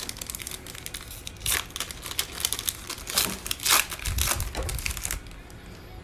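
Plastic trading-card pack wrapper crinkling and tearing as a pack is opened and handled, in a run of short crackling bursts with a dull bump about four seconds in; the crinkling stops about five seconds in.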